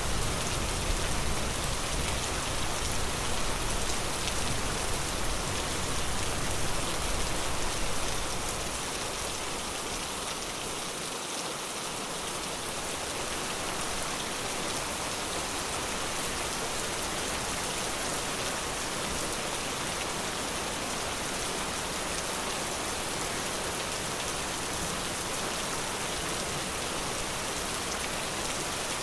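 Steady rain falling in a forest, a dense even hiss of drops. A low rumble under it in the first several seconds eases off about a third of the way in, leaving the rain steady.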